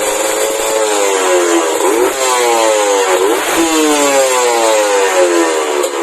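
Kawasaki Ninja 150 two-stroke single revved through a WRS aftermarket exhaust. Short throttle blips, about three, each a sharp rise in pitch and a fall back toward idle.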